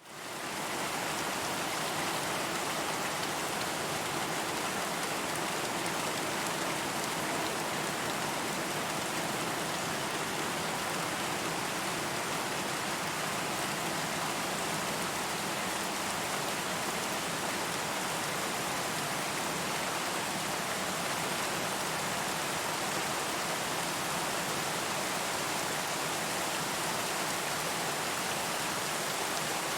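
Steady, even rain falling, a dense hiss of drops with no distinct single drops standing out. It swells up from silence within the first second, as a looped rain track restarting, and then holds steady.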